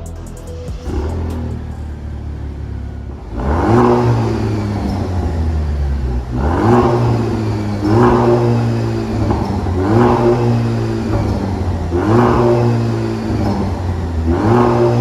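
Alfa Romeo Tonale's turbocharged four-cylinder (GME T4) idling through an MS-R valved cat-back exhaust. After a few seconds it is revved in six short throttle blips, about one every two seconds, each rising in pitch and falling back to idle.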